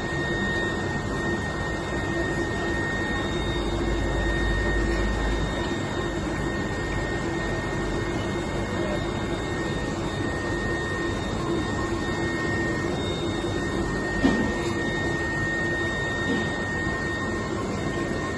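Steady machine whirring with a constant high-pitched whine running through it, and a single brief click about fourteen seconds in.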